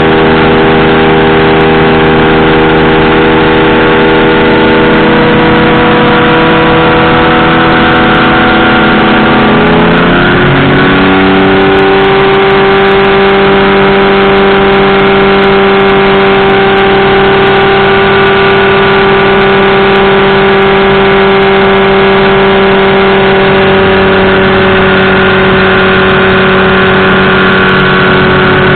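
Powered parachute engine and propeller running loud and steady. About ten seconds in, the engine note dips briefly and then climbs to a higher steady pitch as engine speed rises. It eases down slightly again near the end.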